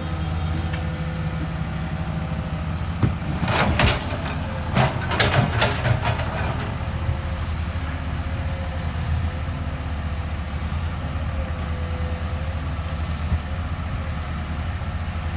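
Excavator's diesel engine running steadily with a low drone, and a few seconds in a cluster of sharp metallic clanks and knocks, as from the bucket and machinery working.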